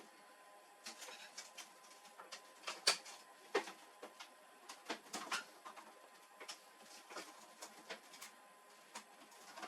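Irregular light clicks and knocks of printer parts being handled during disassembly, the loudest about three seconds in and a cluster around five seconds.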